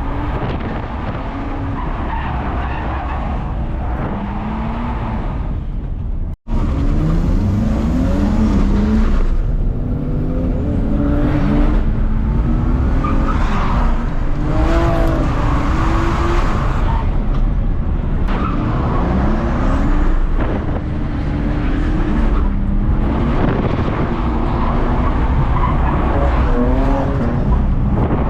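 BMW E46 325Ci straight-six revving hard and falling off over and over while drifting, with tyres skidding. The sound cuts out for an instant about six seconds in.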